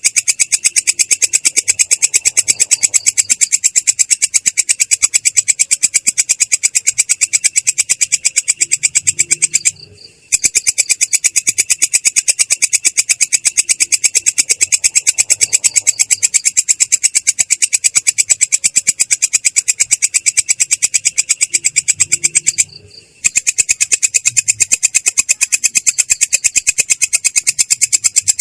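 Belalang kecek katydid calling in a continuous, rapid, even train of high-pitched rasping pulses (its rolling 'ngerol' call, clear but rough). The call breaks off briefly twice, about a third of the way in and again past the three-quarter mark.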